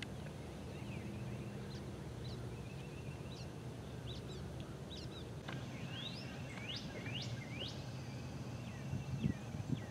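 Songbirds chirping in short rising and falling whistles, thickest in the middle of the stretch, over a steady low hum of open-air background noise.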